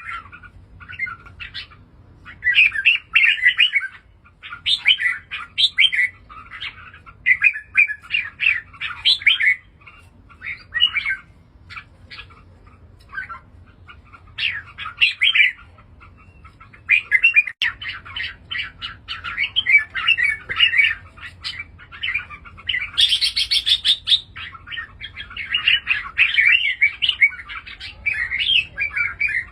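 Red-whiskered bulbul singing: short, chirping phrases repeated every second or two with brief pauses, and one higher, harsher call about three-quarters of the way through.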